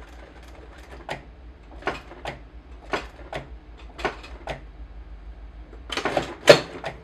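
Sewing machine stitching slowly, a stitch at a time: pairs of sharp clacks about once a second, then a louder burst of clatter near the end.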